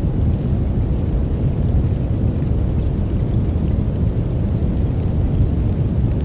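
Steady deep noise with its weight in the low end, a white-noise sleep track with no changes or separate events.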